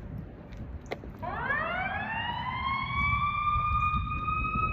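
A siren starts about a second in, rising in pitch over a couple of seconds and then holding a steady wail, over low wind rumble on the microphone.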